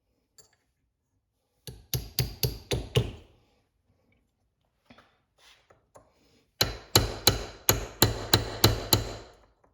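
Hammer blows on a pin punch ground to a chisel point, driven in behind a transmission's sun gear bushing to collapse it inward so it can be pulled out. A quick run of about six blows comes first, then a few light taps, then a longer run of about nine blows at roughly three a second, each with a metallic ring.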